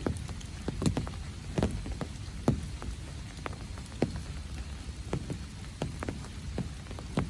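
Rain falling, with large drops landing close by as irregular sharp taps, a few louder than the rest, over a steady low wash of rainfall.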